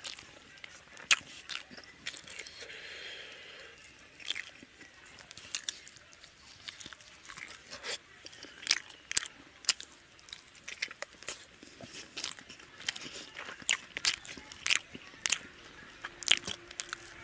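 Close-up eating sounds of a man eating rice and chicken curry by hand: chewing with an irregular run of sharp, wet mouth smacks and clicks, some of them loud.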